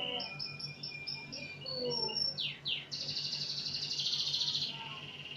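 A songbird singing: a quick run of short high notes, then two fast downward-sweeping whistles, then a long, rapid, buzzy high trill. A low steady hum runs underneath.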